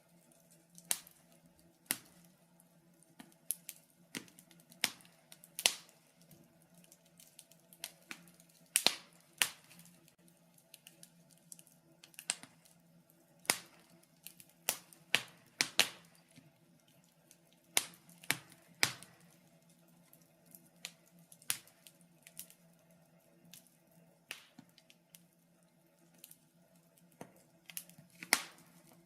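Wood fire in a fireplace crackling, with sharp irregular pops every second or so, bunched more closely in the middle and near the end, over a faint steady low hum.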